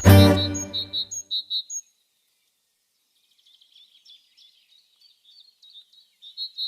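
Background music ends on a final chord that rings and dies away over about a second and a half. After a short gap, high bird chirps come in faintly and grow louder near the end.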